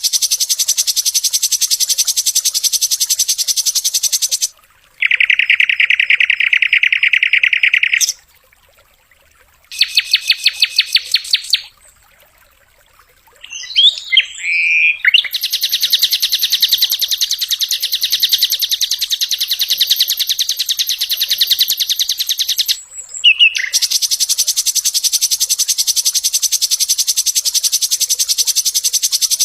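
Sikatan londo flycatcher singing in fast, machine-gun trills of repeated high notes, in the 'tembakan' (shot) style kept for training songbirds. Several long trills are broken by short pauses, with a few brief gliding whistles near the middle.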